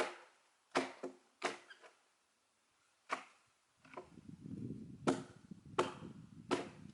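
Sharp blows of a splitting tool on an oak log, about eight strikes at uneven intervals with a brief ring after each. A low rumbling noise starts about four seconds in and runs under the later strikes.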